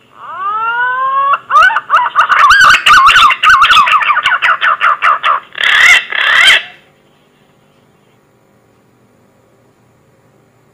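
Green pigeon (punai) lure call: a whistled phrase that opens with a rising note, breaks into a quick run of wavering notes with sharp clicks mixed in, and ends with two louder notes about six seconds in.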